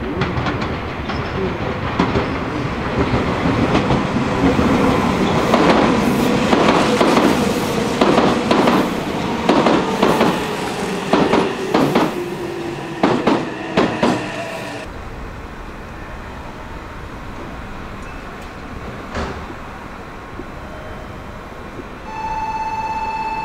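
A Meitetsu electric train passes through the station: wheels clacking over rail joints and a motor whine gliding down in pitch, loudest midway, then dying away after about fifteen seconds. Near the end a steady tone starts.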